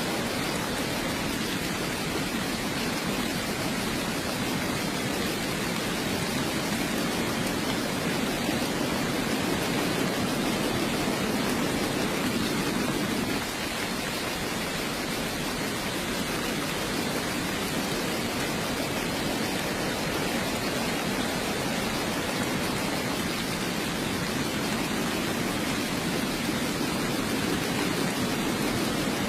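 Steady, even rain, a continuous hiss with no separate drops or thunder standing out; it dips slightly about halfway through.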